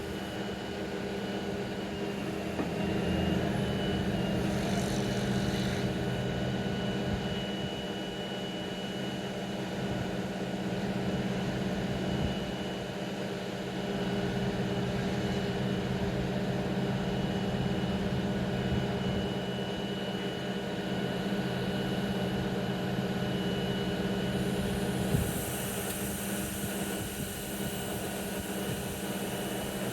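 Steady drone of heavy machinery from a freight train's wagons being emptied, with a constant low hum and a thin high whine. A hiss joins in and a single knock sounds near the end.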